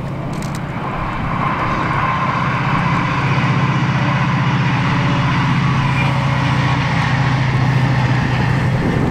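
Diesel passenger train passing along the hillside line, a steady engine drone that swells over the first few seconds, holds, and stops sharply near the end.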